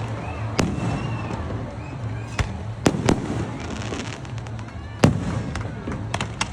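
Aerial fireworks bursting in a string of sharp bangs, the loudest about five seconds in.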